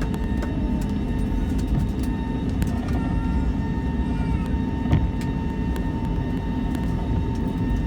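Airbus A320 taxiing, heard from inside the passenger cabin: a steady low rumble with a constant high hum over it. There is a single knock about five seconds in.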